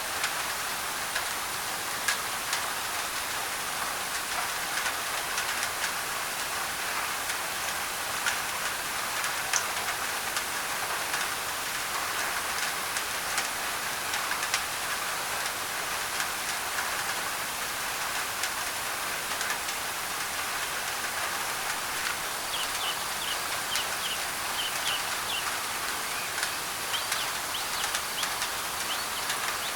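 Steady rain drumming on a thin tin roof, blended with white noise, with scattered sharp drop ticks. From about two-thirds of the way in, a bird chirps in quick short runs.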